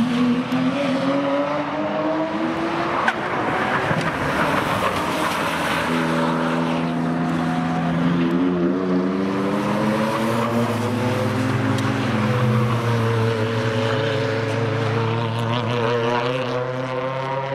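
Cars driving by at speed, their engines rising and falling in pitch as they accelerate and pass, often more than one at once.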